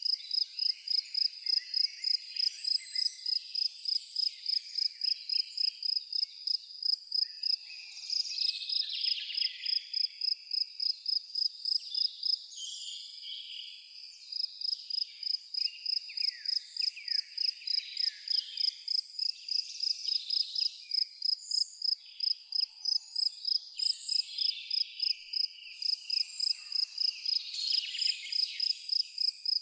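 A cricket chirping in a steady high-pitched pulse, about four chirps a second, falling silent for a second or two near the middle. Birds sing and chirp intermittently underneath.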